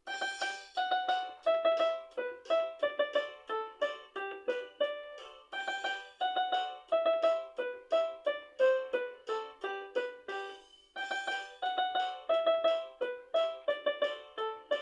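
Instrumental music: a bright melody of short struck notes, with no bass line, repeating the same phrase about every five and a half seconds.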